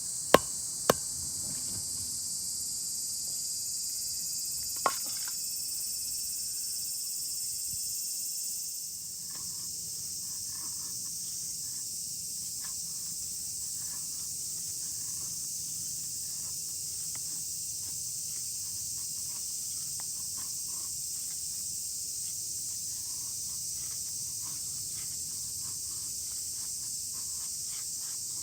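Steady, high-pitched shrilling of a forest insect chorus. Two sharp knocks come in the first second and another about five seconds in, with faint scattered small ticks later on.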